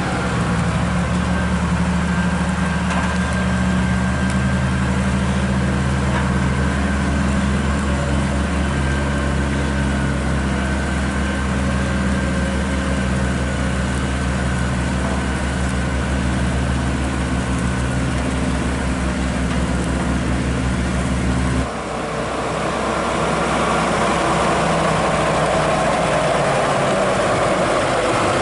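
Volvo FH16 550 hp truck's diesel engine running with a steady low drone. About three-quarters of the way through, the sound changes abruptly: the low engine note drops away and a rising mid-pitched engine and road noise takes over.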